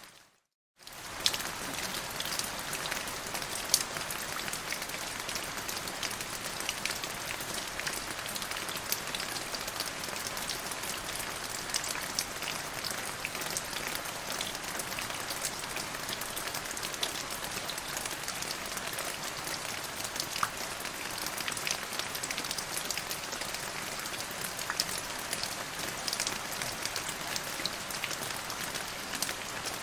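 Steady rain falling, an even hiss with many sharp individual drop hits. The sound cuts out for about half a second right at the start, then comes back at the same level.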